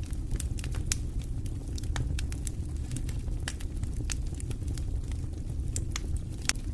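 Wood fire in a fireplace crackling and popping, with sharp irregular snaps over a steady low rumble of the flames; one louder pop near the end.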